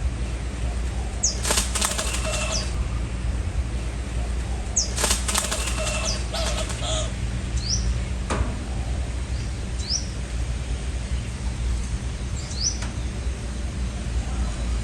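Strong wind buffeting the microphone as a steady low rumble, with two short bursts of a bird's wings flapping about a second and a half and five seconds in. Several brief, sharp, rising chirps of small birds are scattered through it.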